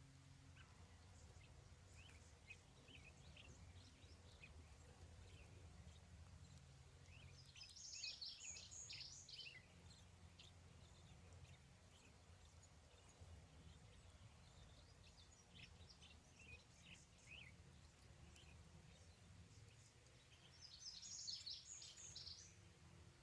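Faint bird song: two quick, high chirping phrases about twelve seconds apart, with scattered single chirps between, over a low steady rumble.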